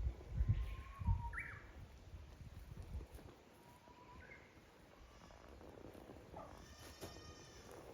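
A goat bleating briefly near the end, a high call that runs on past the end. Before it, a few thin bird whistles and low thumps in the first few seconds.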